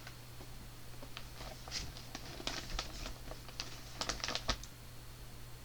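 Books being handled: a scattered run of light taps and rustles, thickest about four seconds in, as paperbacks are taken from a bag and set down.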